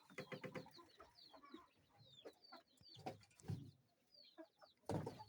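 Free-range Kienyeji chickens clucking softly, with many short, high, falling chirps scattered through. A brief louder rustle comes near the end.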